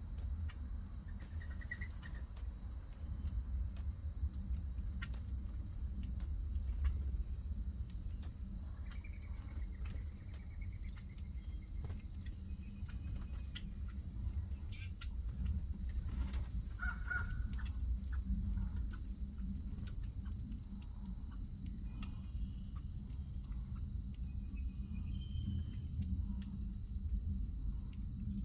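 Wild birds calling: a short, high chirp repeating about every second and a half through the first half, with a few other calls in the middle, over a steady high hum and a low rumble.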